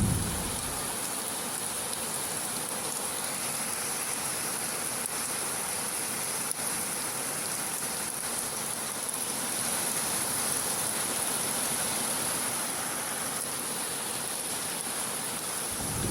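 Steady heavy rain hiss. A deep rumble of thunder dies away in the first second, and another begins to build right at the end.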